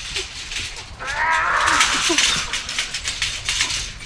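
A dog giving a high, wavering whine or yelp from about a second in, with clicking and rustling around it.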